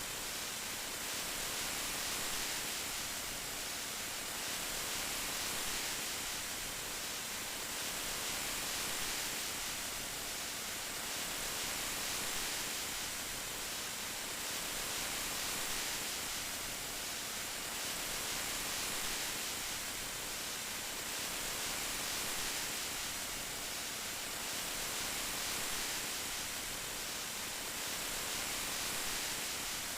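Steady rain falling, an even hiss strongest in the high end, swelling gently about every three seconds.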